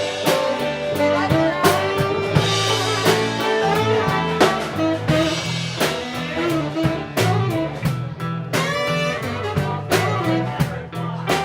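Live band playing blues-style music, with guitar over a drum kit keeping a steady beat.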